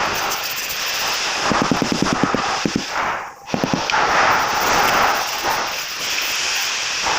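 Rapid mechanical hammering in bursts of about ten strokes a second, over a steady hissing noise, with a brief drop-out about three and a half seconds in.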